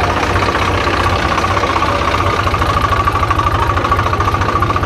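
Diesel engine idling steadily with an even, rapid chugging.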